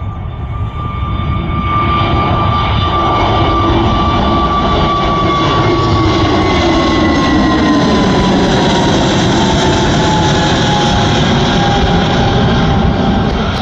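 Jet engines of a departing Airbus A320-family airliner at takeoff power, a loud rumble that builds over the first couple of seconds and then holds, with an engine whine that slides slowly down in pitch as the aircraft passes.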